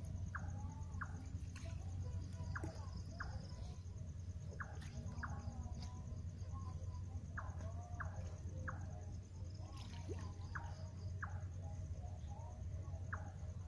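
Night-time outdoor chorus of insects and small animals: a fine, steady high insect trill with many short, repeated chirping calls scattered through it, over a low, steady hum.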